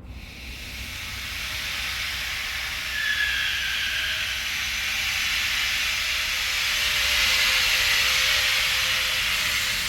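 Compressed air hissing steadily through the arc spray air system. It starts suddenly, builds over the first two or three seconds and then holds, with a few faint steady tones beneath it.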